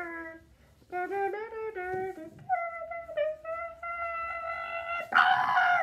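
A high-pitched voice wails a wordless, sung melody in short gliding phrases, then holds one long steady note. It breaks into a loud, harsh cry near the end.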